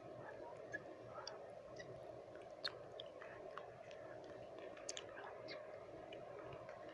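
Wet mouth sounds close to the microphone: scattered lip smacks and tongue clicks, the loudest about two and a half and five seconds in, over a steady bed of white noise.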